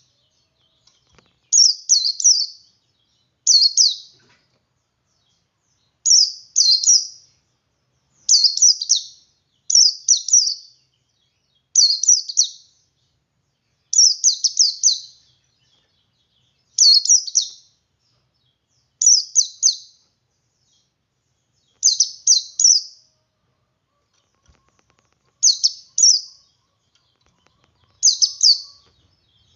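A male white-eye (pleci) singing in the 'ngalas' style: short, high, rapid chirping phrases of a few notes each, repeated about every two seconds with brief silences between.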